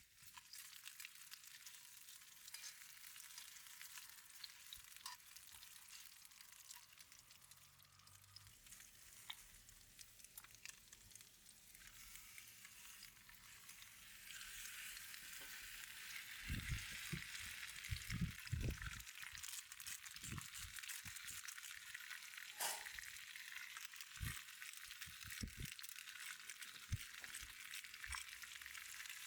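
Food sizzling in a pan, growing louder about halfway through, with a few knocks of a utensil against the pan in the second half.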